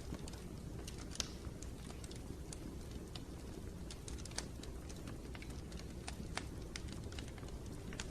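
Wood fire burning in a fireplace: a steady low rumble with irregular crackles and pops, a few each second, one sharper pop a little over a second in.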